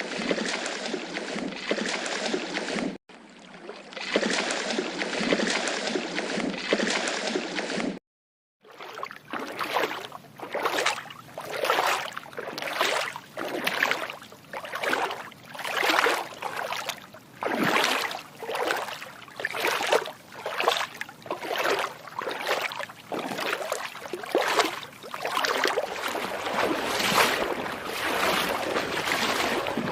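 Water sloshing and splashing. After a break about eight seconds in, it comes in rhythmic surges about once a second.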